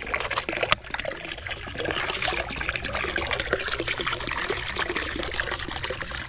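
Water trickling and splashing, with many small clicks and ticks throughout.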